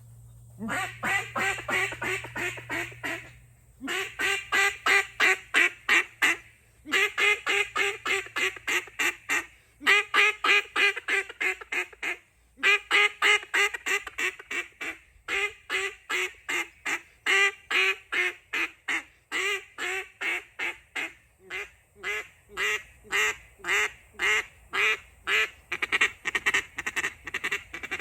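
KM Outlaw CutDown threaded-insert keyhole duck call blown in a demonstration sequence: runs of loud, sharp quacks with short breaks between them, the notes coming quicker and shorter near the end.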